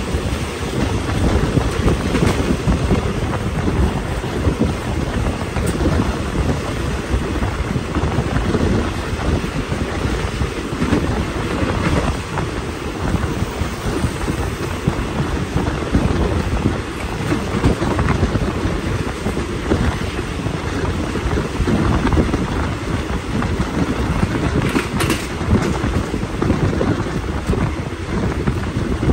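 Steady wind buffeting the microphone at the open window of a moving passenger train, over the rumble of the carriage running on the rails.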